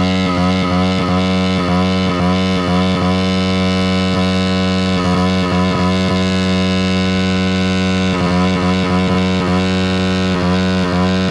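Cheap pit bike's single-cylinder engine running steadily at high revs, held there continuously in an attempt to run it until it blows up.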